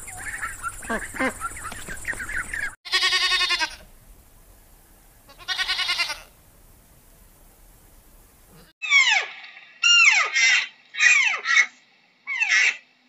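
A goat bleats twice, each bleat long and wavering. Before that come quick chattering calls from another animal, and after it a string of short cries that each fall steeply in pitch, about one a second.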